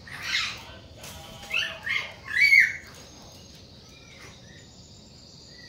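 Hill mynas calling: a run of short harsh calls and whistled notes in the first three seconds, the loudest about two and a half seconds in, followed by a faint thin high whistle.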